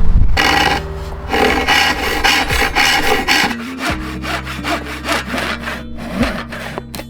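Hand saw cutting through a piece of wood in repeated back-and-forth strokes.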